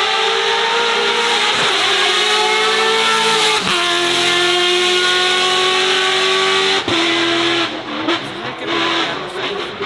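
Race car engine at full throttle accelerating hard, its pitch dropping sharply at three upshifts, about two, three and a half and seven seconds in. After the last shift the sound fades and breaks up as the car goes away.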